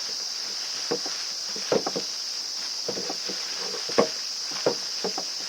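Light knocks and clicks of brush cutter parts being handled and fitted during reassembly, irregular, one or two a second, the sharpest about four seconds in, over a steady high hiss.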